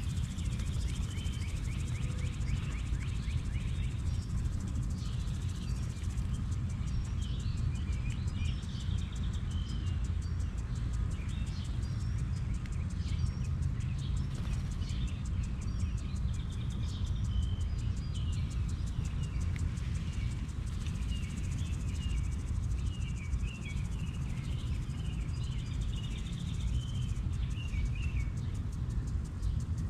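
Wild birds chirping and twittering in short, scattered calls over a steady low outdoor rumble.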